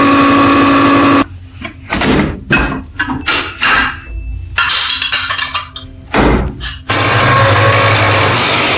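An electric power tool running steadily, then cutting in and out in short irregular bursts with knocks for several seconds, then running steadily again from about seven seconds in, with a low hum.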